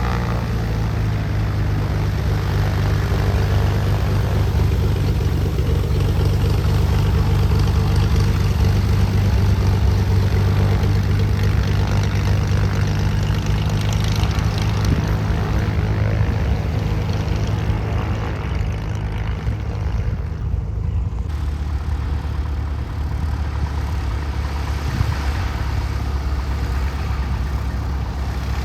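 Single-engine piston propeller airplane running steadily and loudly close by, its engine and propeller giving a low, even drone.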